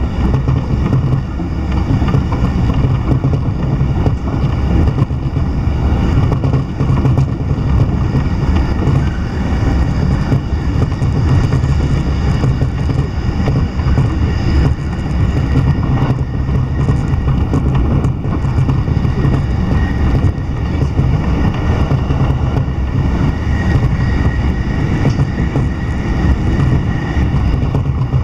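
Steady running noise of a JR Sobu Line electric commuter train at speed, heard inside the carriage: a continuous low rumble of wheels and running gear on the track.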